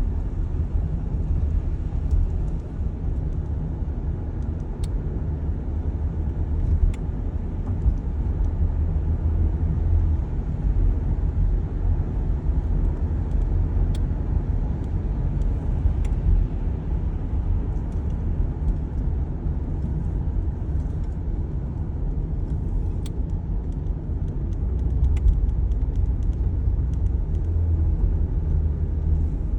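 Car interior with the vehicle running as a steady low rumble, and faint, irregular clicks coming from inside the cabin every few seconds. The clicking comes with a front heater that has no power.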